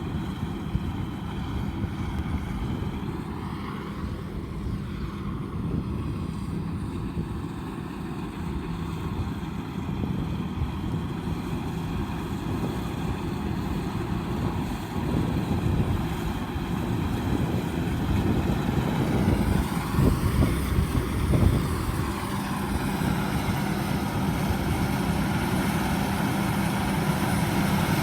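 Combine harvester engine running steadily, its drone growing somewhat louder in the second half, with a few sharp knocks about twenty seconds in.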